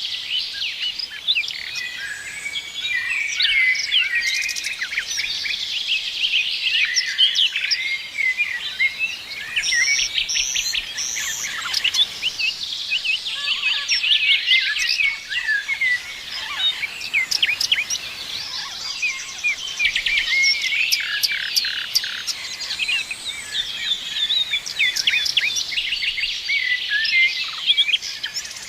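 Many songbirds chirping and singing at once, a dense chorus of short overlapping chirps, trills and whistles with no pause.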